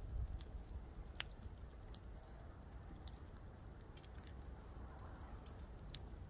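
Mostly burnt-down campfire crackling faintly: a scattering of sharp pops and snaps, about one a second, over a low steady rumble.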